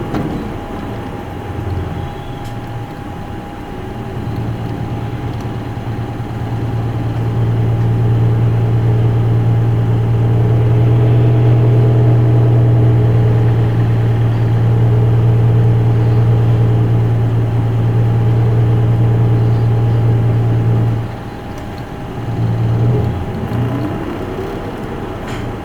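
Interior running sound of an Isuzu Erga Mio city bus: its diesel engine works hard under load and grows louder from about four seconds in. It holds a steady pitch, then eases off abruptly near twenty-one seconds, followed by a brief rise. A thin steady whine sits under the engine throughout.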